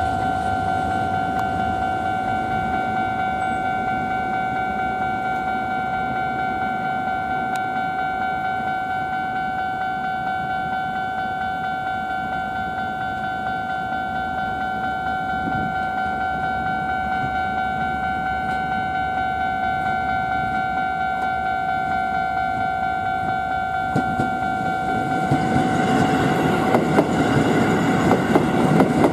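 Keisei 3050 series electric train running: a steady whine that holds one pitch over low rail rumble. The running noise grows louder in the last few seconds.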